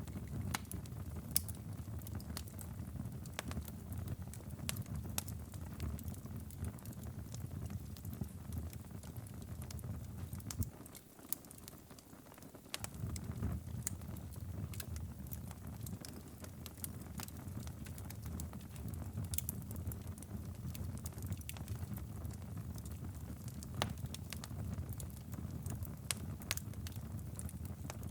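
Wood fire crackling in a fireplace: a steady low rumble of flames with scattered sharp pops. The rumble drops away for a couple of seconds a little before the middle.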